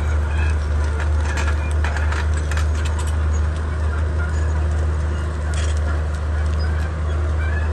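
Komatsu D31P bulldozer's diesel engine running steadily under work, with scattered short clanks and cracks in the first few seconds and again past the middle.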